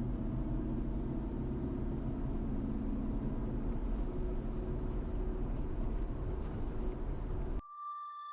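Steady low rumble of a running vehicle, which cuts off abruptly near the end and gives way to sustained, music-like electronic tones.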